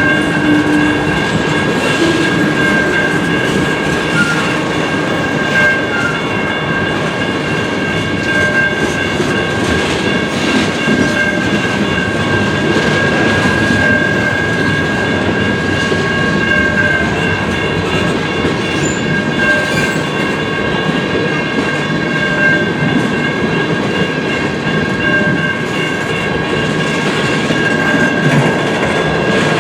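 CN manifest freight train rolling past, its railcar wheels clacking over the rail joints in a steady, loud run, with a steady high-pitched ringing tone over it.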